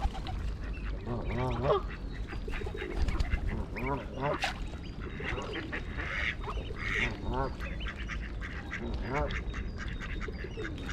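Mallard ducks quacking in short quick series of calls, several bouts through, over a low steady rumble.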